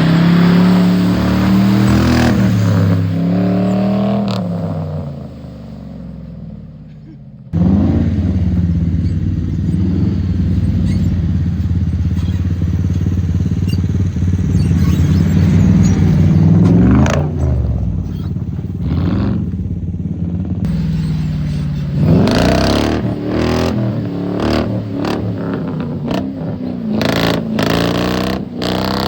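1998 Ford F-150's 4.6-litre V8 engine driving off-road, its pitch rising and falling as the throttle opens and closes. From about two-thirds of the way through, repeated sharp knocks and rattles from the truck working over rough ground.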